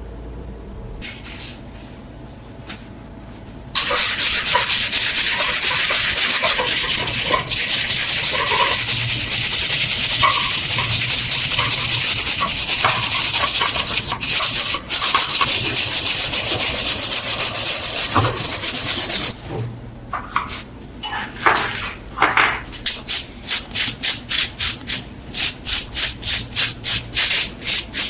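A steady, loud hiss runs from about four seconds in to about nineteen seconds and then stops. After it, rhythmic rubbing strokes of about three a second, metal being sanded by hand.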